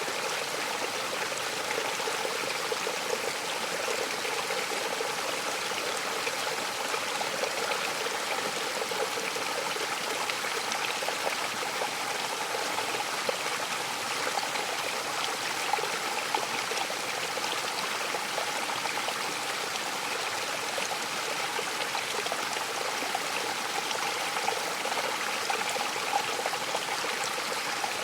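Mountain waterfall: a steady, even rush of falling water with small irregular splashes.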